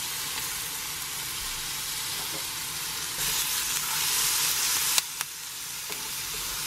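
Beef and onion pieces sizzling in a frying pan as they are turned with tongs, an even hiss that grows louder for a couple of seconds midway, with a light click about five seconds in.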